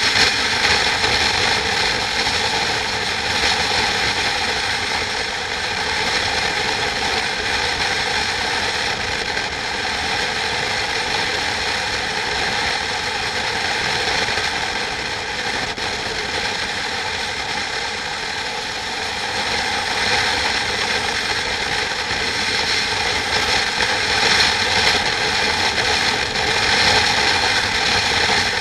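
Steady mechanical running noise with several high, steady whining tones, unbroken and at an even level throughout.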